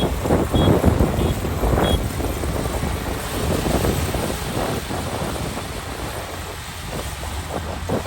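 Kubota ER572 combine harvester running, with wind buffeting the microphone in gusts. A short high beep repeats about every half second for the first two seconds, then stops.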